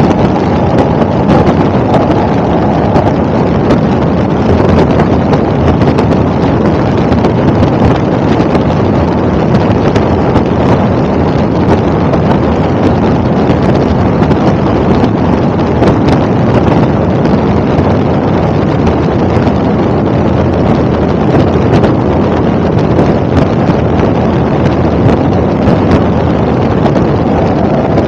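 Helicopter engine and rotor noise: a loud, steady rush that does not change.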